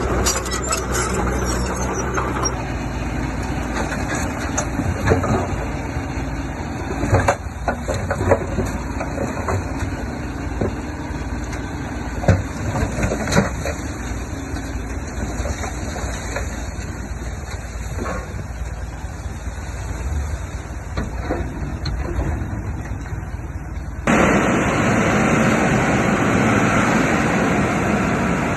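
Heavy diesel earthmoving machinery running steadily, with scattered metallic clanks and knocks. The sound changes abruptly about 24 seconds in to a louder, hissier engine.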